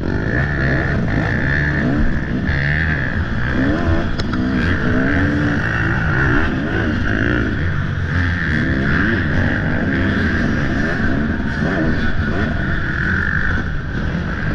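Off-road motorcycle engine revving up and down as the dirt bike is ridden hard through a race course, its pitch rising and falling every second or so.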